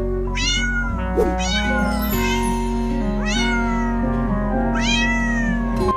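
Cat meowing four times, each call rising sharply then sliding down, over background music with held notes and a steady bass.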